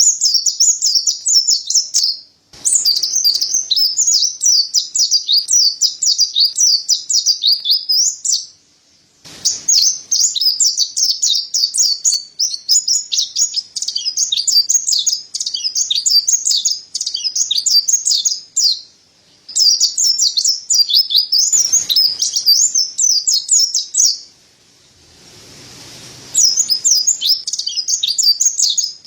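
Mountain white-eye (pleci dada putih, Zosterops montanus) singing a rapid, high, rolling twitter in long runs with short breaks. A faint rush of noise fills one break near the end.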